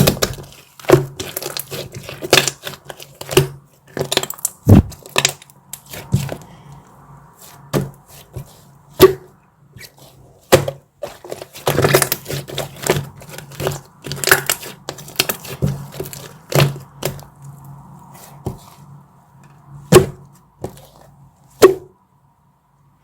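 Dark chocolate snapping and crunching in irregular sharp cracks, a few each second with short gaps, over a low steady hum.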